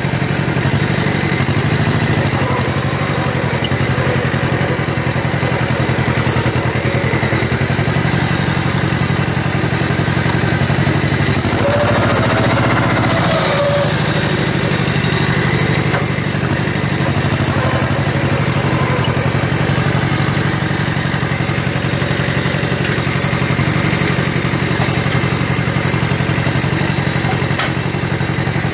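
Kubota L1500 compact tractor's 18-horsepower diesel engine running steadily while the tractor works, with a brief change in tone about halfway through.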